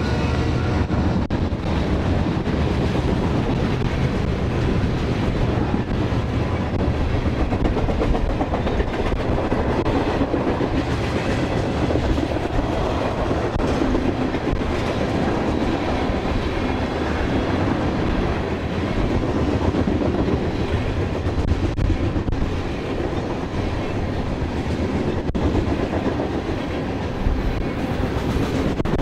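Freight cars of a long manifest train, mostly tank cars, rolling past close by: a steady rumble of steel wheels on the rails with occasional faint clicks.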